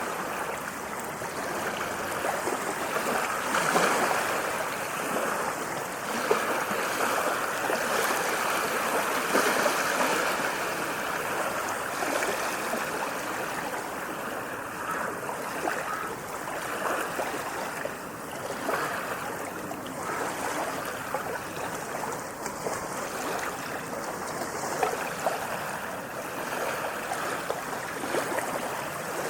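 Small waves washing in: a continuous rushing, splashing water sound that swells and eases slowly, a little louder in the first third.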